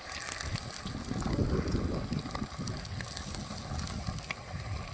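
Tortilla chips frying in a pot of hot oil: a dense, continuous crackle of small pops.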